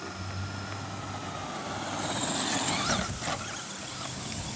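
Electric motor of a Traxxas RC truck on a 2S battery whining, its pitch rising and falling as the truck speeds up and slows down about halfway through, over the hiss of its tyres on wet pavement.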